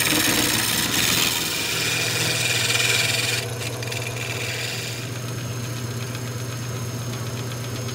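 Wood lathe running with a steady motor hum as it turns a wooden shovel handle; for the first three seconds or so a tool scrapes the spinning wood with a dense hiss, then stops abruptly, leaving only the lathe's hum.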